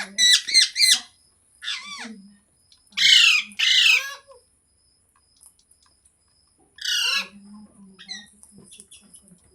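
Pet green parrot squawking in short calls: a quick cluster right at the start, the two loudest about three seconds in, and a few more near the end.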